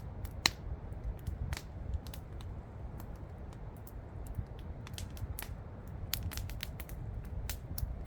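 Wood campfire crackling: irregular sharp pops and snaps, the loudest about half a second in, over a steady low rumble.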